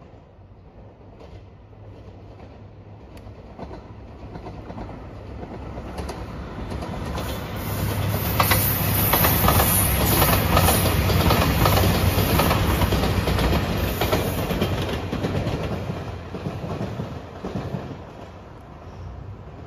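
JR Shikoku 2700 series diesel limited express train passing. It grows louder over several seconds, runs loudest for about seven seconds with wheels clacking over the rail joints, then fades away.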